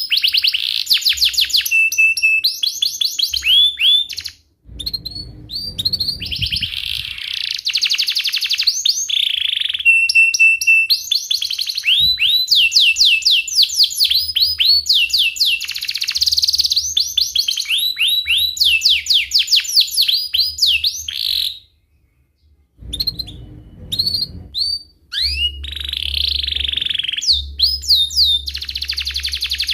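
Domestic canary singing vigorously: a long song of rapid repeated chirps and rolling trills, breaking off briefly twice.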